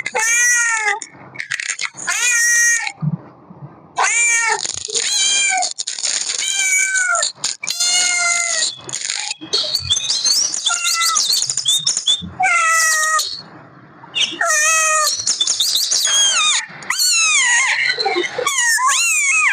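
Kittens meowing over and over: many short, high cries in quick succession.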